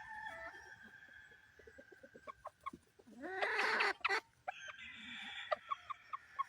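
Game chickens clucking, with one louder, longer call about three seconds in.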